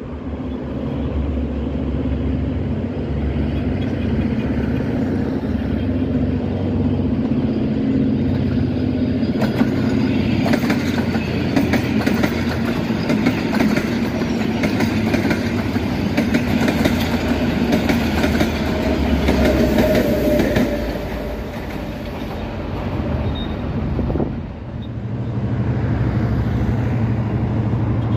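Passenger train approaching with its locomotive engine running steadily, then its coaches passing close by with a fast clickety-clack of wheels over the rail joints, which fades after about 20 seconds. About 25 seconds in, steady road traffic takes over.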